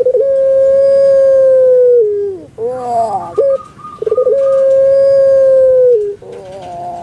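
Puter pelung dove (Streptopelia risoria) cooing: two long, held notes of about two seconds each, each ending in a downward slide, with a short rolling, warbling note between them and softer notes near the end.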